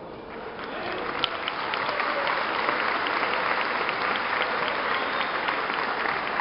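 Audience applauding and cheering, building up in the first second and then holding steady.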